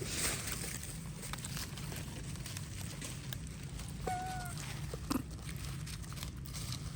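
Quiet outdoor background with a single short, pitched animal call about four seconds in, followed by a faint knock.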